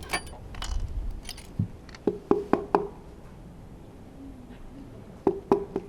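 Sharp metallic clicks and knocks from engine parts being handled during the teardown of a Honda F1 engine, as the No. 6 piston and connecting rod are removed. The clicks come in two clusters, four about two seconds in and three near the end, several with a short ring.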